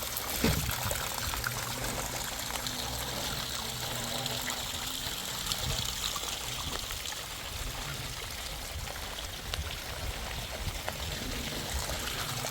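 Rainwater trickling and pouring steadily, with fine patter throughout and a single sharp knock about half a second in.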